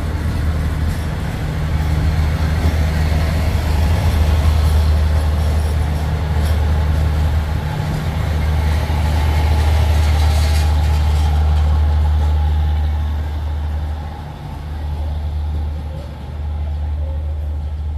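Diesel-hauled passenger train rolling past the platform: a steady low rumble of engine and carriages that dips briefly after about fourteen seconds as the last cars pull away.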